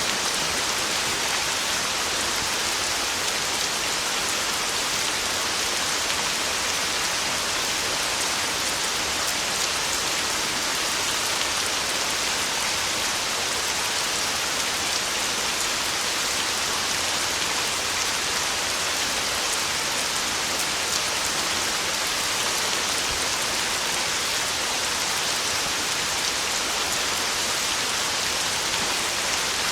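Heavy, torrential rain on a tin roof, falling steadily with an even hiss of dense drops and no thunder.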